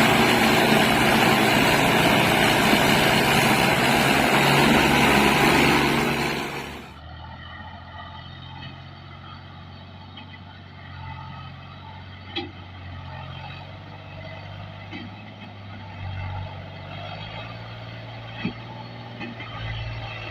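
Tractor engine running loud for several seconds, then a sudden drop to a quieter, steady engine hum with a few sharp clicks.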